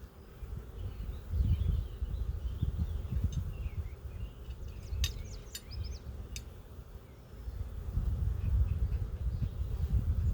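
Honeybees buzzing around an open hive, under uneven low rumbling. A bird chirps through the first two-thirds, and three sharp clicks come a little past halfway.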